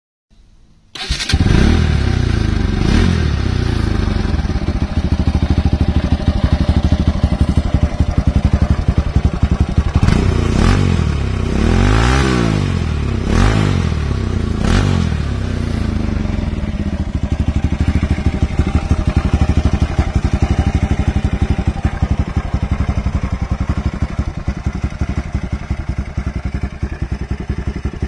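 Bajaj Pulsar NS200's single-cylinder engine running through a loud modified exhaust. It idles with a fast, even pulse, is blipped up and back down about four times in the middle, then settles back to idle. The sound starts abruptly about a second in.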